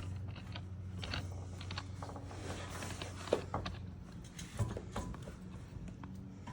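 Irregular light mechanical clicks and knocks from small parts being handled, over a steady low hum.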